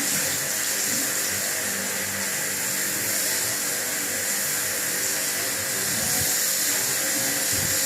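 Pressure washer running steadily, its water jet hissing against the air conditioner's outdoor unit, with a steady high motor whine.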